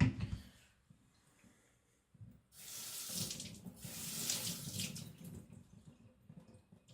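Water running from a tap and splashing, in two surges over about two and a half seconds, starting about two and a half seconds in.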